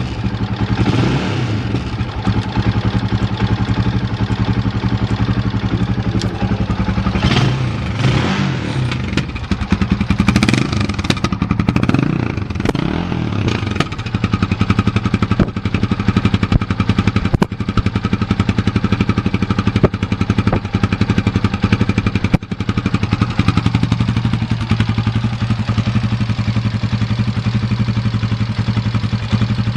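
Gilera Saturno 500's single-cylinder four-stroke engine running, revved briefly several times in the first half, then idling steadily.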